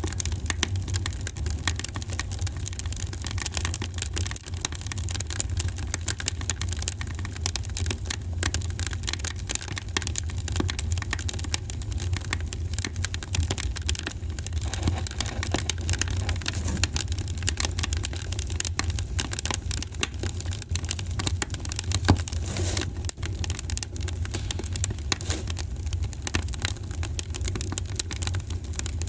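Fireplace fire crackling: dense, rapid pops and snaps over a low, steady rumble, with one louder pop about three-quarters of the way through.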